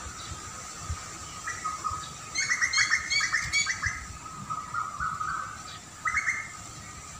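Songbird chirping: a quick run of notes about two seconds in and a short burst again near the end, over a steady thin whine.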